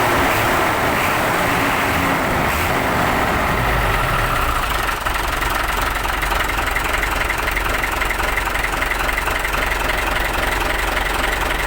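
Hino 500 truck's diesel engine idling steadily, with a light regular ticking coming in during the second half.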